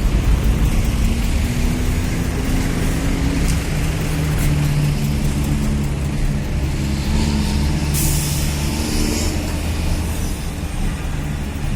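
City street traffic, with a vehicle engine running steadily close by and a sudden short hiss about eight seconds in.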